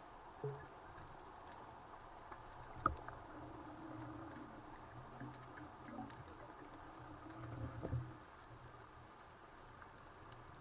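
Faint underwater crackling and ticking, the constant background of a seabed heard through a camera housing. There is one sharp click about three seconds in and a low knock just before eight seconds.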